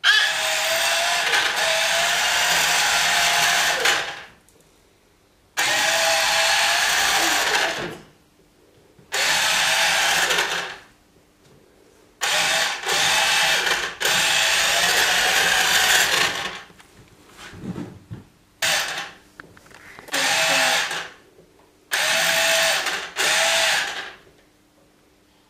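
Small electric motor and gearbox of a toddler's battery-powered ride-on quad bike whining in repeated bursts of one to four seconds, starting and stopping about seven times.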